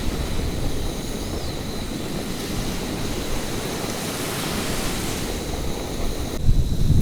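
Steady rush of surf and wind at the shore, with a wave washing up about four seconds in.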